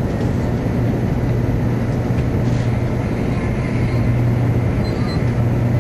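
Steady interior running noise of a Tōkaidō Shinkansen train at speed, heard inside the passenger cabin: a constant low hum under an even rushing noise.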